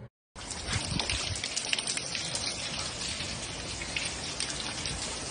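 Rain falling steadily on a hard surface, a dense patter of small drop ticks over a constant hiss, starting abruptly just after the opening instant.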